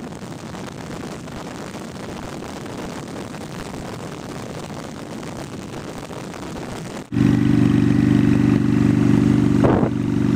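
A steady rush of wind and road noise. About seven seconds in it cuts abruptly to the Honda Shadow Spirit 750's V-twin running at a steady speed through aftermarket Cobra exhaust pipes, much louder.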